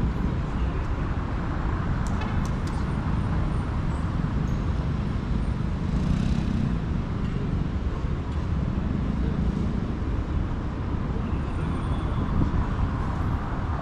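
Steady city street traffic noise with a low rumble, and a few sharp clicks about two seconds in.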